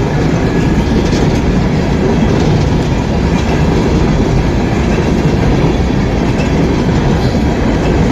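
A train's cars rolling past close by: a steady, loud rumble of wheels on rail.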